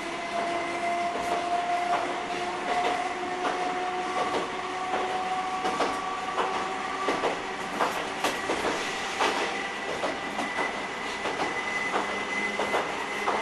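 Electric train running, heard from inside the cab: wheels click over rail joints at an uneven pace under a steady hum and whine that drifts slightly in pitch.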